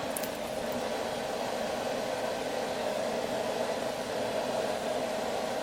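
Forge running unattended, a steady rushing noise with no hammer strikes.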